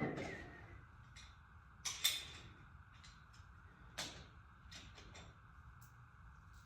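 A few scattered knocks and clicks from handling parts while fitting propane hose fittings, the loudest about two seconds in and another near four seconds, with smaller ticks between them over a low steady hum.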